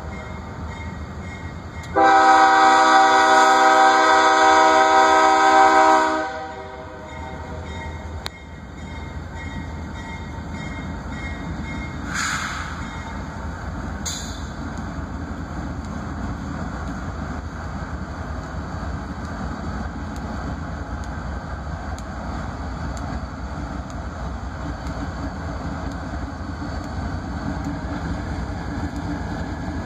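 Diesel freight locomotive's multi-chime air horn sounds one long blast about two seconds in, lasting about four seconds. Afterwards the locomotives' diesel engines and rolling wheels rumble steadily, slowly growing louder as the lead units draw alongside, with two brief sharp sounds in the middle.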